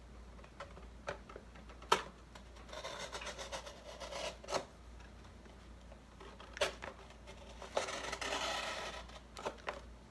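Thin cereal-box cardboard being cut by hand: two longer scraping, rasping stretches of cutting, with several sharp clicks and taps in between.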